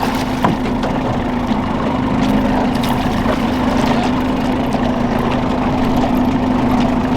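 Boat's outboard motor running steadily at low trolling speed, with water noise and occasional small clicks and knocks.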